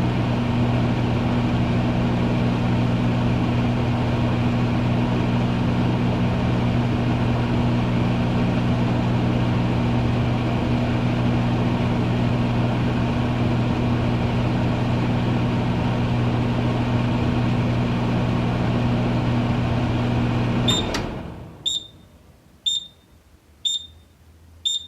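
Microwave oven running with a steady hum and fan whir, which cuts off about four-fifths of the way in. A series of short high beeps follows, about one a second, signalling the end of the heating cycle.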